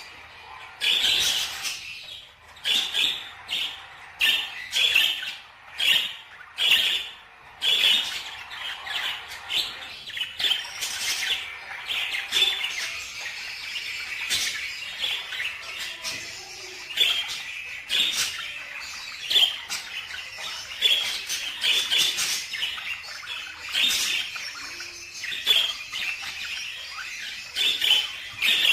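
Ornamental cage birds chirping and squawking in a steady run of short, sharp, high calls, several birds calling over one another.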